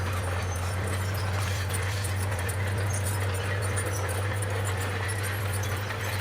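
Bulldozer's diesel engine running steadily under a constant low hum, with light clatter, typical of the tracks and blade, over it.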